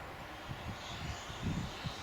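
Electric ducted fans of a Freewing Me-262 RC model jet, a faint steady whine in the air, with short gusts of wind buffeting the microphone.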